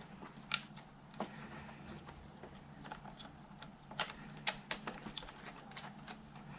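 Hand tools and metal parts clicking and clinking irregularly during work on motorcycle handlebar controls, with a quick cluster of sharper clicks about four seconds in, over a steady low hum.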